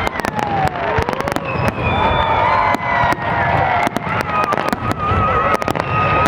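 Fireworks display: a dense run of sharp crackling pops and bangs, with whistle-like tones sliding up and down in pitch.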